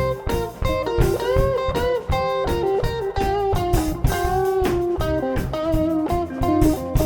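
Live rock band in an instrumental passage: a guitar playing a lead line with bent, sustained notes over bass and drums.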